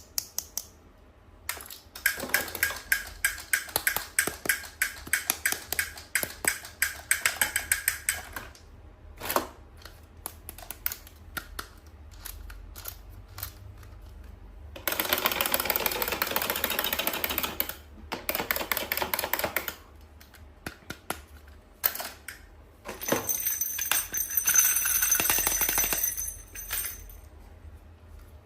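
Toy packaging handled during unboxing: a long run of quick, sharp clicks and crackles, then two stretches of steady rustling a few seconds long, the second with a thin high tone in it.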